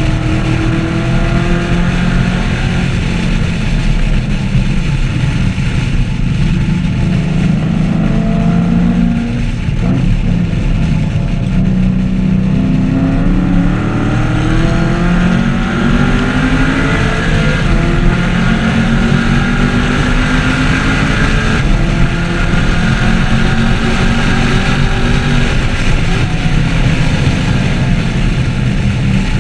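2014 Chevrolet Camaro 1LE's V8 engine being driven hard, its revs climbing and dropping again and again as it accelerates, shifts and slows.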